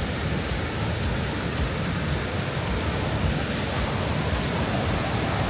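Rhine Falls, a large waterfall, sending up a steady, loud rush of falling water.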